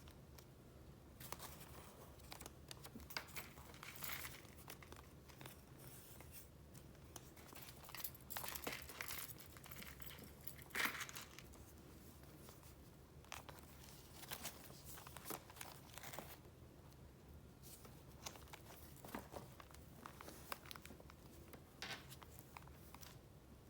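Soft, irregular rustling and crinkling of paper as a file of retro paper goods is flipped through and handled, with the loudest crinkle about eleven seconds in.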